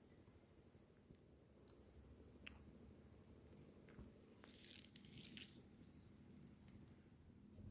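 Faint, steady high-pitched chirring of insects, a fast pulsing trill that never stops. A few soft clicks like drips come through, with a brief rustle about halfway through.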